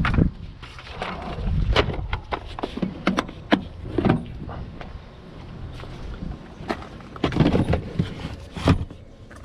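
Irregular sharp clicks and knocks of handling, a dozen or more scattered through, with a low rumble underneath.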